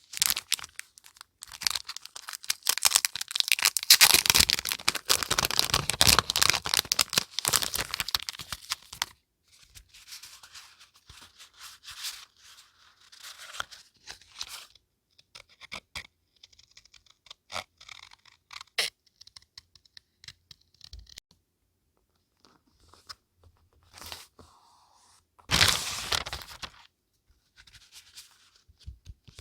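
Paper being handled close up: dense crackling tearing and crinkling for the first several seconds, then quieter rustles and light ticks, and another short burst of tearing near the end.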